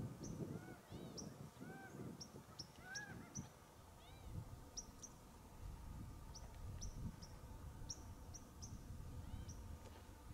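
Birds calling faintly: many short rising-and-falling whistled notes at changing pitches, mixed with quick sharp high chirps, over a low rumble.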